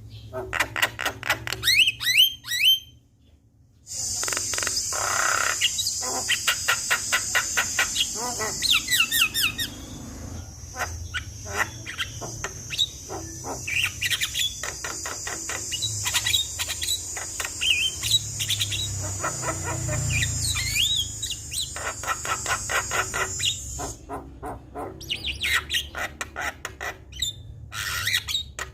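Javan myna singing a varied song of fast rattling chatter and whistled, gliding notes, with a steady high buzz running behind it for most of the stretch.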